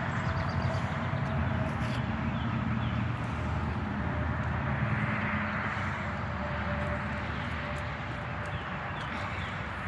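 The truck's 1973 Chevrolet Nova inline six-cylinder engine idling steadily.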